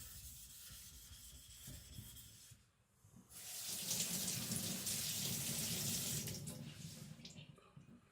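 Faint scraping of a knife on a whetstone, then water running from a tap for about four seconds before it stops near the end, as the stone or blade is rinsed during sharpening.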